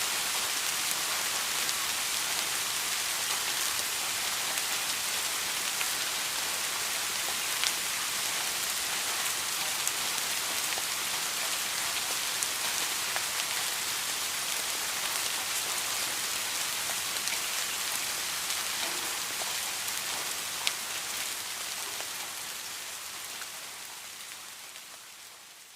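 Steady rain falling, a dense hiss with sharp drip clicks scattered through it. It fades out over the last few seconds.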